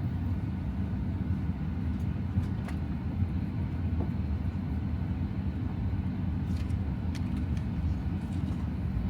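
Steady low rumble of an airliner cabin as the plane taxis, with a few faint clicks.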